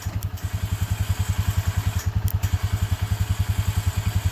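ATV engine idling, a steady low pulse of about ten beats a second, with a couple of faint clicks.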